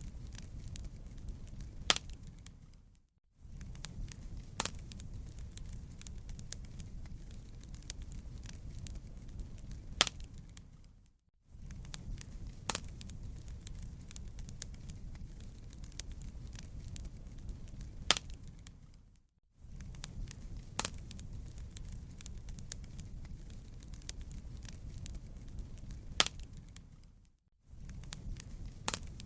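Fireplace crackling: a steady low rumble with constant small crackles and a louder pop every few seconds. The sound cuts out briefly about every eight seconds, as a short loop repeating.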